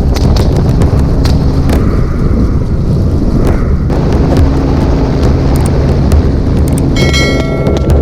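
Helicopter in flight: steady rotor and engine noise with a rapid low beat, and wind buffeting the microphone. A brief high-pitched tone sounds about seven seconds in.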